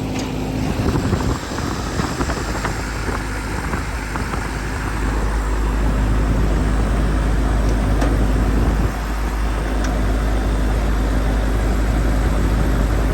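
Old Trane central AC condensing unit running, with a steady low hum and fan noise. A few clicks and rattles come in the first seconds as refrigerant gauges are hooked on. The system has lost its Freon charge and the suction side is pulling into a vacuum.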